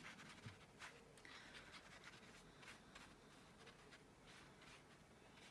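Near silence with faint, brief scratching of a paintbrush stroking across paper, a few light strokes.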